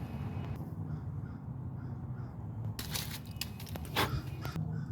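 Crows cawing, a few short caws in the second half, over a steady low background rumble.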